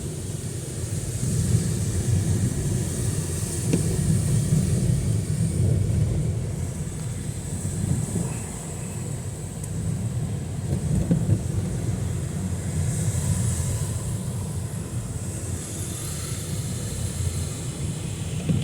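Outdoor ambience in heavy rain: a steady low rumble with a fainter high hiss over it.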